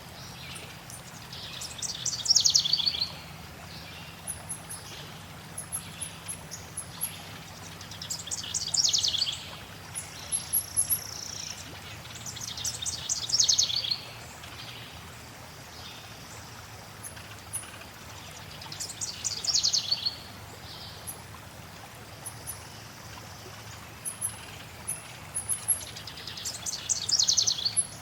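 A songbird repeating a fast trill that slides down in pitch, about every five to six seconds, with faint very high chirps between phrases. Under it runs the steady rush of flowing water.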